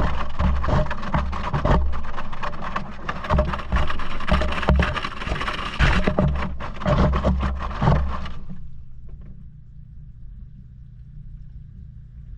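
Inside a Maytag washing machine during a wash: water and wet laundry sloshing, with many irregular knocks and thuds. The sloshing stops abruptly about two-thirds of the way through, leaving a low steady hum.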